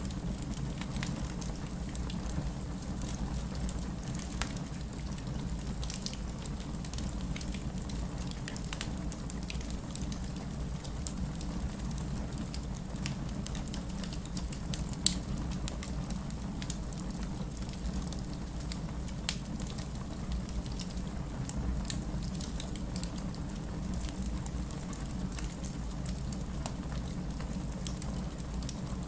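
Wood fire in a fireplace crackling steadily: scattered small pops and snaps over a low, even rush of the burning fire, with one louder pop about halfway through.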